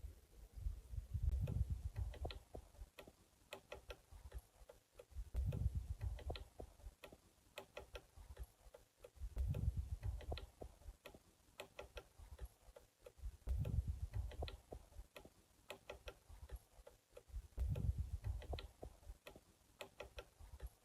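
Woodpecker pecking at wood: irregular sharp taps of its beak on a tree, a few per second, with a low rumble recurring about every four seconds.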